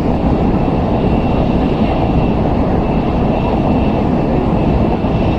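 Interior running noise of an N700S Shinkansen at speed: a steady, loud rumble with a faint steady high tone above it.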